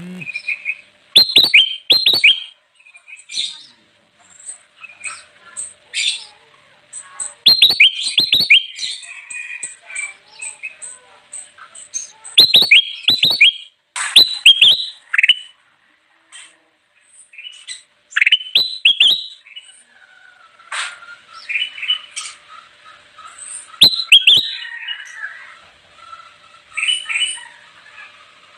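Kutilang emas, a bulbul, singing: loud bursts of quick, rising chirping notes every few seconds, with softer twittering between them.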